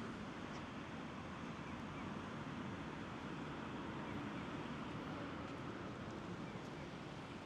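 Steady flowing water of the Kamo River, with faint distant voices.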